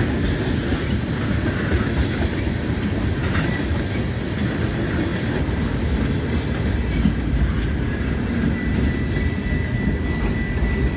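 Freight train rolling past, a steady rumble of wheels on rails, with a faint high steady squeal coming in after about eight seconds.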